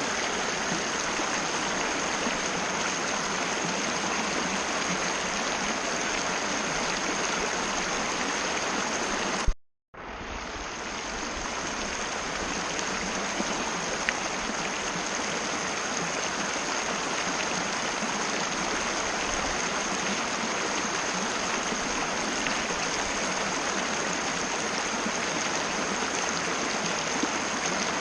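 Mountain river rushing over rocks, a steady, even flow of water. About a third of the way in the sound cuts out for half a second and then fades back in.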